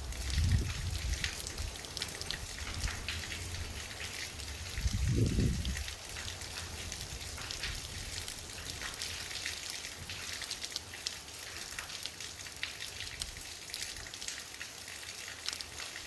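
Heavy rain falling and splashing, with many separate drops striking close by. A brief low rumble comes just after the start, and a stronger one about five seconds in.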